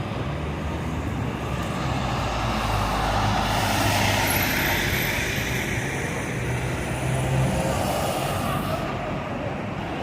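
Street traffic with a large road vehicle passing close by: a steady low hum under a wide rush of noise that swells for several seconds around the middle, then fades.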